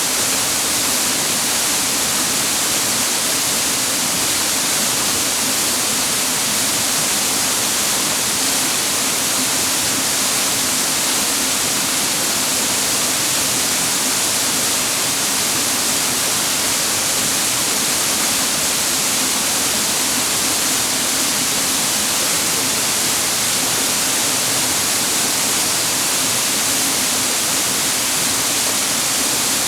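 Cascading water of a clear mountain stream, a steady, unbroken rush that stays the same throughout.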